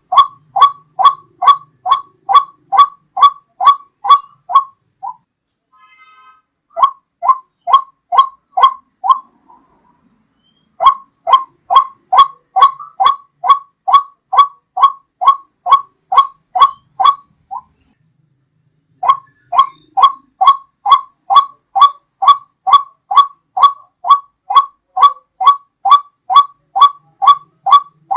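White-breasted waterhen (ruak-ruak) call, played as a hunter's lure: a rapid, very regular series of short notes, each sliding slightly downward, about three a second. The runs last several seconds and are broken three times by pauses of one to two seconds.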